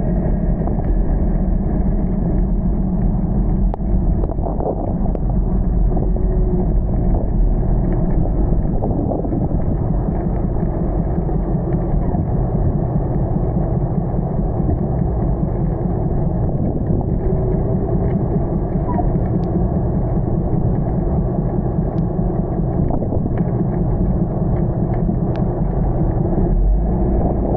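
Steady low rumble of a vehicle on the move in heavy rain, with no clear change throughout.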